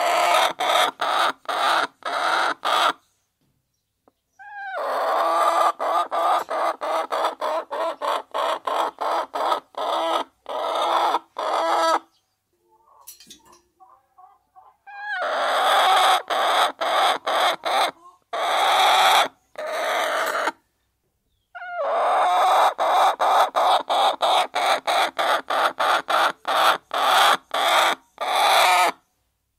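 A flock of hens clucking while they peck at feed. The sound chops rapidly on and off and cuts out abruptly to silence several times.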